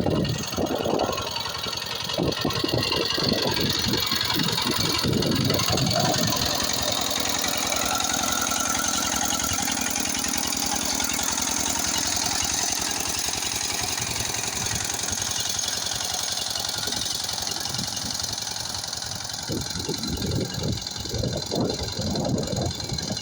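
Walking tractor engine running, freshly fitted with a new piston and rings. It pulses heavily for the first several seconds and again near the end, and runs steadier in between.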